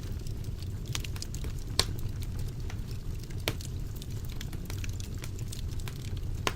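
Fire burning in a fireplace: a steady low rumble of flames with frequent sharp crackles and pops. The loudest pops come about two seconds and three and a half seconds in.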